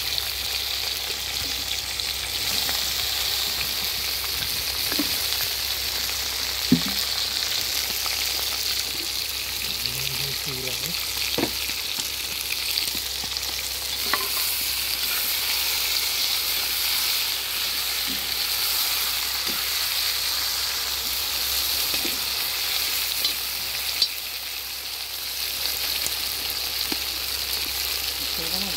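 Beef, onions and sliced potatoes sizzling steadily in hot oil in a cast-iron kazan while a metal skimmer stirs them, with a few sharp knocks of metal against the pot.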